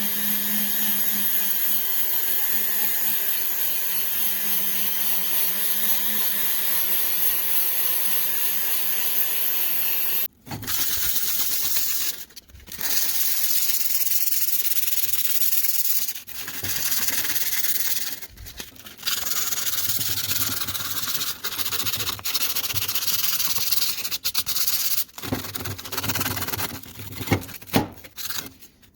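A small electric power tool runs steadily with a motor hum and a high hiss, then cuts off suddenly about ten seconds in. After that, hissing, rubbing work noise comes in stretches that stop and start.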